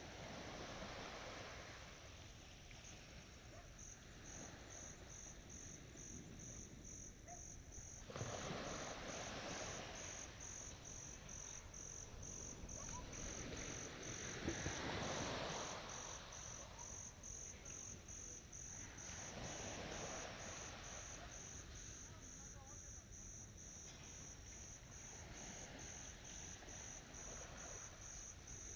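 Ocean waves washing onto the shore at night, the surf swelling and fading every few seconds. An insect chirps steadily and high-pitched throughout, about twice a second.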